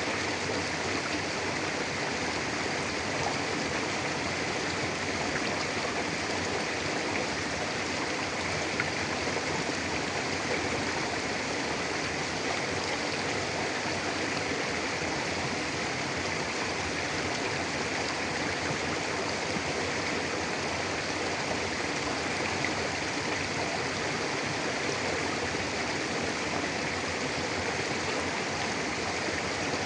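Mountain river flowing steadily over rocks, a constant rushing and babbling of water.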